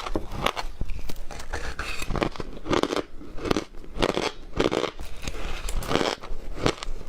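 Ice being bitten and chewed, a continuous run of crisp crunches and crackles, several a second.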